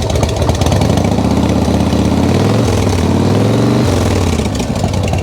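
Harley-Davidson V-twin engine running, revved up for about three seconds a second in and then let drop back to its lumpy idle. It is being held above idle to check whether the stator is charging the battery.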